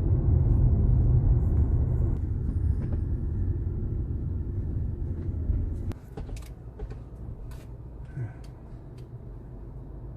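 Low road and engine rumble inside a moving car's cabin. It eases off after a couple of seconds and drops sharply about six seconds in, as the car slows; a few faint clicks follow.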